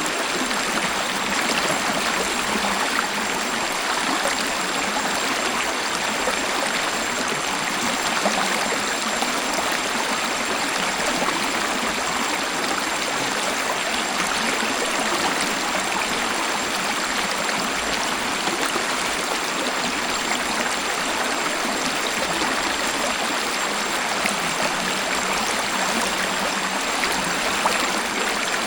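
Waterfall: a steady, even rush of falling and flowing water, unchanging throughout.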